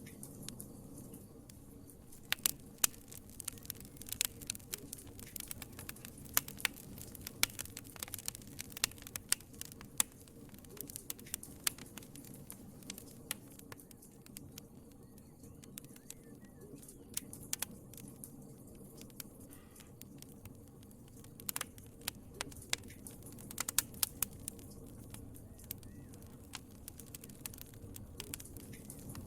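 Fireplace fire crackling: irregular sharp pops and snaps, some in quick clusters, over a low steady rumble of the flames.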